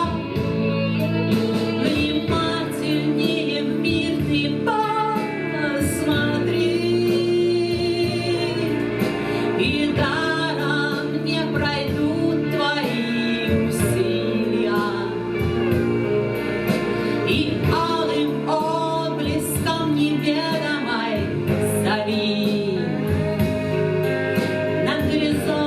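A song sung with instrumental accompaniment, the voice carrying a melody over steady held chords.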